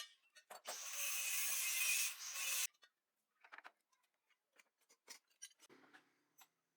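A loud hiss lasting about two seconds, then scattered light clicks and taps, like metal tools being handled.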